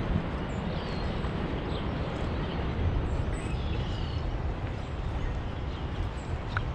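Outdoor ambience: a steady low rumble with scattered short, faint bird chirps.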